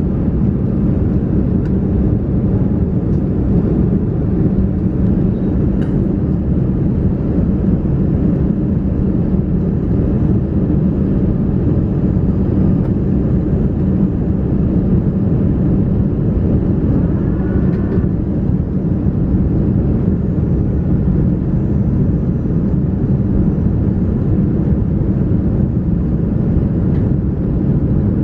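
Airbus A330-300 airliner in flight: a steady low drone of engines and airflow with a constant hum, as heard inside the cabin.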